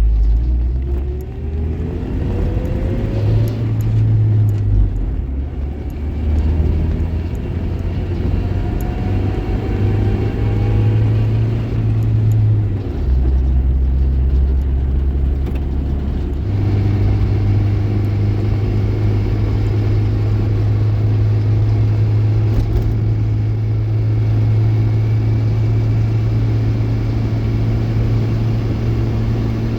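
Car engine and road noise of a moving car. The engine pitch rises a few times in the first half as the car accelerates, then holds steady as it cruises from about halfway on.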